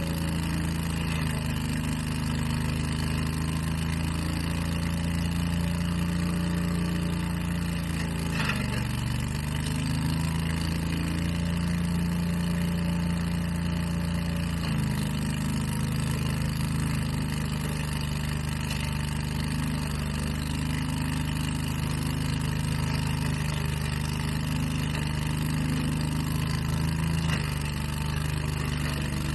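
Gasoline engine of leaf-cleanup power equipment running steadily, its pitch dipping briefly about 8 seconds in and shifting again around 15 and 27 seconds.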